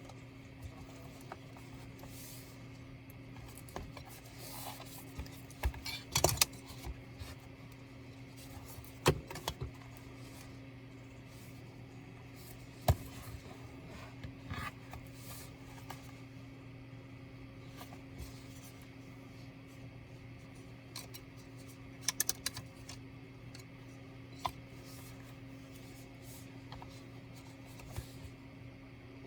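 Scattered clicks, taps and short scrapes of tools and plastic laptop parts being handled during disassembly, over a steady low hum. The sharpest clicks come in small clusters about six, nine, thirteen and twenty-two seconds in.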